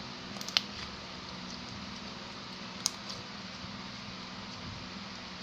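Homemade slime being handled, giving a few small sticky clicks and pops, the sharpest about three seconds in, over a steady fan hum.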